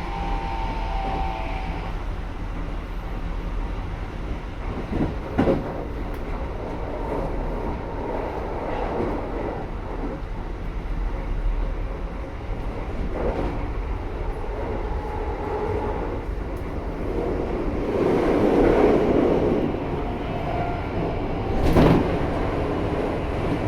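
Keikyu New 1000 series electric train running at speed, heard from inside the passenger car: a steady rumble of wheels on rail with motor hum. Sharp knocks from the track come about five seconds in and again near the end, and the noise swells for a second or two about eighteen seconds in.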